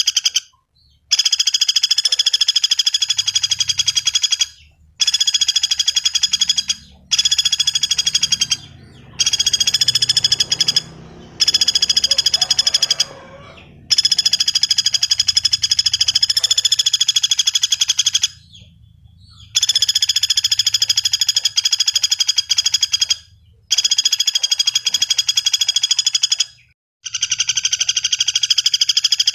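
Common flameback woodpecker (pelatuk bawang) calling in long, fast, high trills of rapidly repeated notes. Each trill lasts a few seconds, with brief pauses between them.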